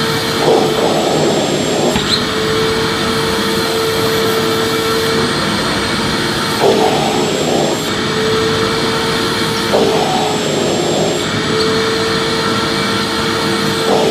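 Vacuum cleaner running steadily with a constant hum. Every few seconds the hum gives way for about a second to a rougher rush of air.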